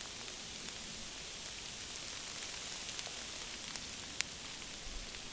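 Steady rain falling on leaves and undergrowth: an even hiss with scattered close drops ticking, one sharper drop about four seconds in.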